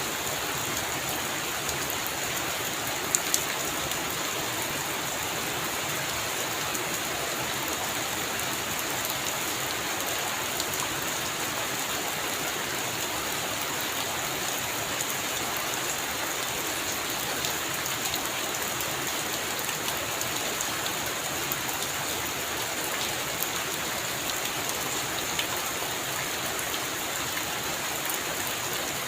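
Heavy rain falling steadily on a roof, with scattered sharp drop taps; two louder taps come about three seconds in.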